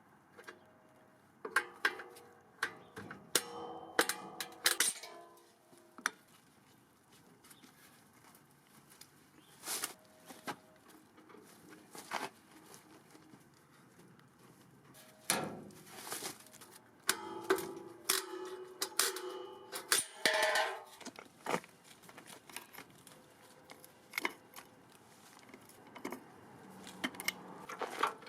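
Intermittent metallic clanks, clicks and scrapes of hand work on metal parts, with a few short ringing notes from struck metal.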